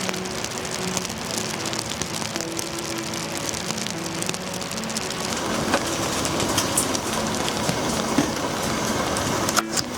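Soft background music with held low notes in the first half. Then the steady patter of rain falling on a surface, with scattered sharp ticks.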